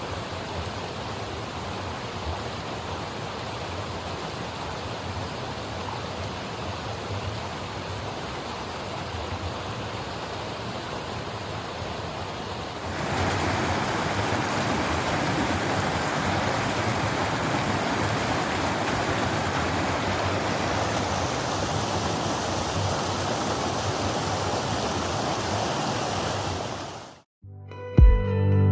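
Steady rushing of flowing water, louder after a sudden step about halfway through. It cuts off abruptly near the end, and soft music starts.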